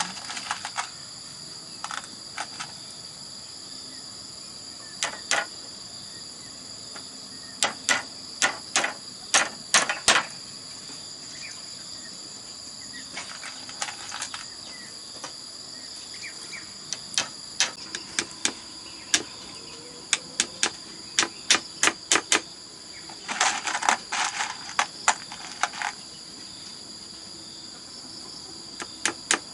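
Steady high-pitched insect chorus, with irregular sharp knocks and taps in clusters, as of bamboo being worked by hand. Near the end comes a two-second stretch of rapid rasping strokes.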